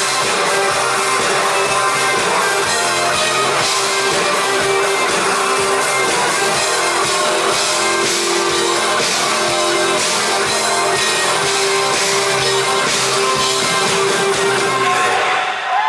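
Live rock band playing, with guitars and a drum kit. The music stops briefly just before the end, as the song finishes.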